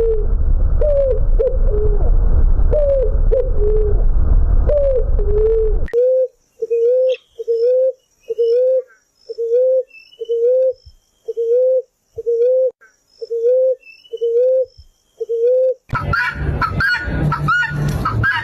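Birds calling in three recordings in succession. First come low whistled notes over a steady background hiss. About six seconds in, a run of short, low, even notes begins, about one a second, with faint high chirps behind. Near the end a busy mix of overlapping calls takes over.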